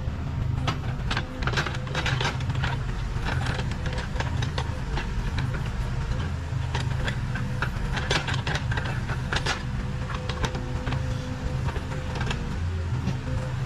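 Case 580 Super K backhoe loader's diesel engine running steadily under working load, with a thin steady whine over the engine note. Over it come many short knocks and scrapes from the machine working soil, thickest about a second in and again around eight to ten seconds in.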